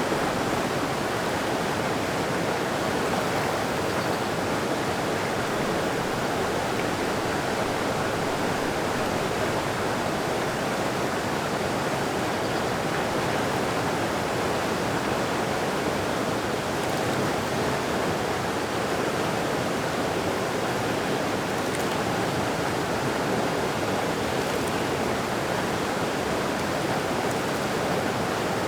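Mountain creek flowing, a steady, unbroken rush of water.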